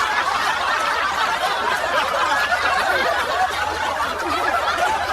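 Crowd laughter: many voices chuckling and laughing at once, holding at a steady level.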